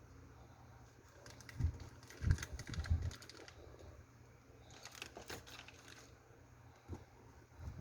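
Handling noise: scattered clicks, taps and light rustling, with a cluster of soft thumps about two to three seconds in and another run of clicks about five seconds in.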